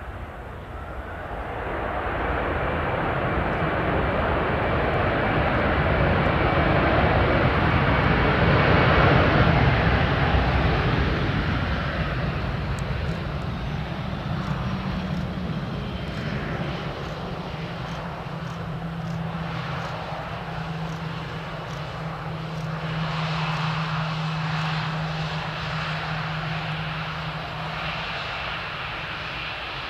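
Airbus A319's twin CFM56 jet engines on a landing pass, growing louder as the jet approaches, loudest about ten seconds in, then easing into a steadier hum that swells a second time about two-thirds of the way through.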